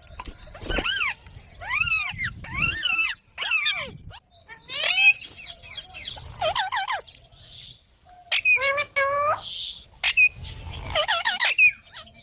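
Pet green parrot calling over and over in short, sharply arched high calls, in several quick runs with short pauses between them.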